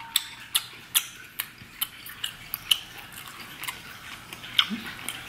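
Close-miked chewing of boiled octopus tentacle: a run of sharp, wet mouth clicks and smacks, about two a second.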